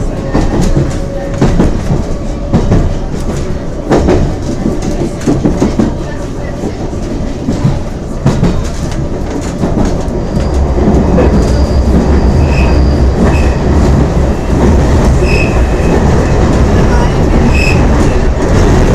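London Underground C Stock train running, its wheels clicking over the track, then settling into a louder, steadier rumble about halfway through, with a few brief high squeaks near the end.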